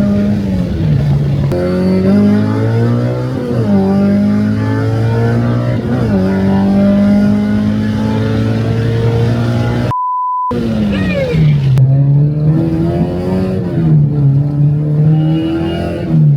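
K24-swapped Honda Civic's 2.4-litre four-cylinder engine pulling under load: its pitch climbs and then drops at each gear change, several times over. About ten seconds in, a half-second beep replaces all other sound.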